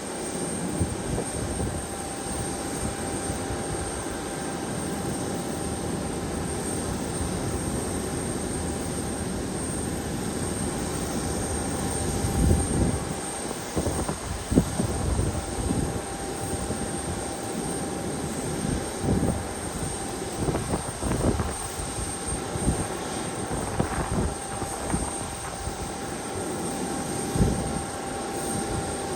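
Airliner engines running with a steady roar and a faint steady whine, while irregular gusts of wind buffet the microphone.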